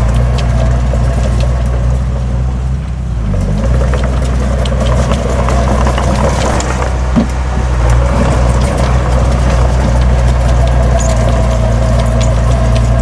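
Heavy diesel engine of earthmoving machinery running steadily, with scattered light clicks and knocks and one sharper knock about seven seconds in.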